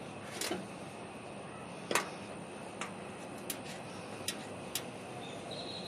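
Light, irregular clicks and taps, about six over several seconds, from hands working on the small lamp and its wiring while cleaning the wires.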